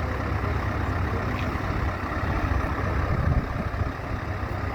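Heavy truck engine idling with a steady low rumble, swelling louder for a moment about three seconds in.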